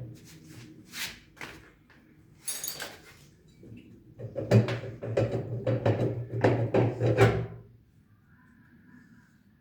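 Repeated sharp knocks and clattering of metal parts and tools during washing-machine repair work. A steady low hum runs under the loudest knocks in the middle, and everything stops about two seconds before the end.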